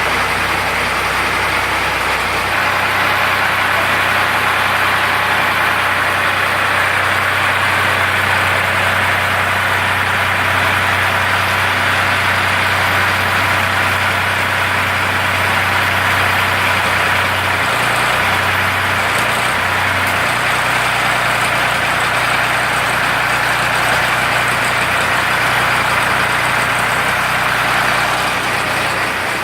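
Ford 3600 tractor's three-cylinder engine running steadily while driving a generator. Its low note shifts about two seconds in, and again briefly around eighteen to twenty seconds.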